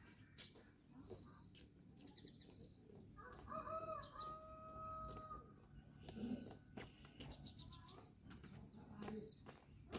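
A rooster crowing once, faintly: one drawn-out call that starts about three seconds in and lasts roughly two seconds, over scattered faint clicks.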